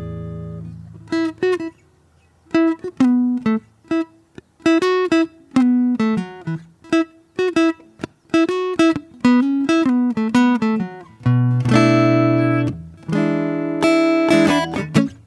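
Solo acoustic guitar: a chord rings out and fades, then after a short pause single notes are plucked in short phrases, with a fuller strummed chord about twelve seconds in.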